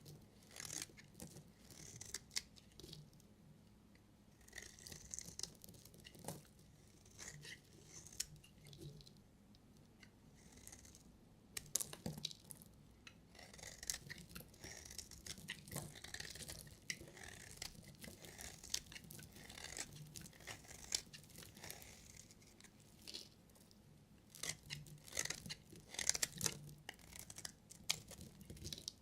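A knife cutting through bars of soap: a long run of short, irregular cutting strokes, a few of them louder and sharper than the rest.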